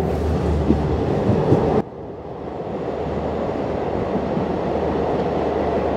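Passenger train running, heard from a coach doorway: steady rumble of wheels and running gear. About two seconds in the noise drops sharply, then builds back up steadily as the train runs through a long rail tunnel.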